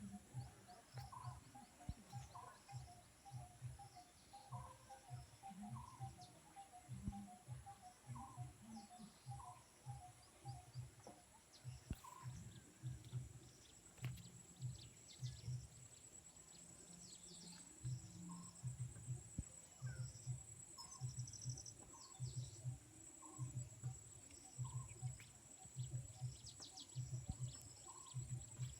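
Outdoor ambience: birds chirping in short repeated runs over a steady high-pitched insect drone, with a regular low pulsing beat, about two to three a second, underneath.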